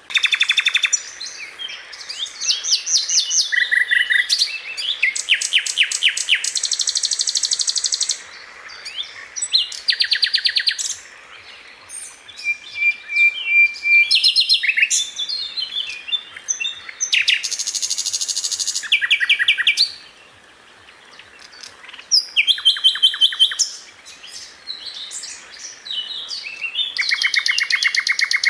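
Sikatan londo flycatcher singing: a dense run of rapid, high trills of fast-repeated notes in bursts of a second or two, with short pauses between phrases and one longer pause about two-thirds of the way through.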